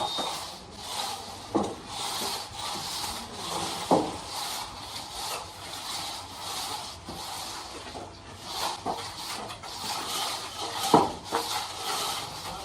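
Scraping and rubbing from tile-laying work, with three sharp knocks, about 1.5, 4 and 11 seconds in.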